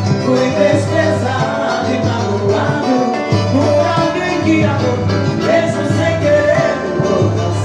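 A small band playing Latin American music with singing over a steady, repeating bass line.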